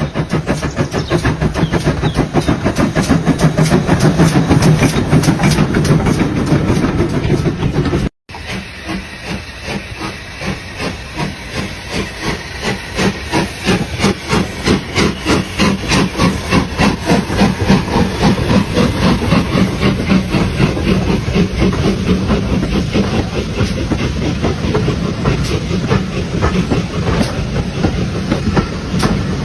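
Steam locomotive chuffing: rhythmic exhaust beats over a steady steam hiss. It breaks off for a moment about eight seconds in, then resumes in a clearer, regular beat.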